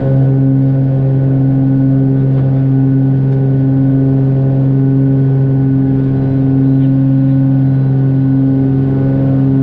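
Cessna 414A's two turbocharged piston engines and propellers droning steadily at takeoff-climb power in the cabin, with an even, deep tone and its overtones.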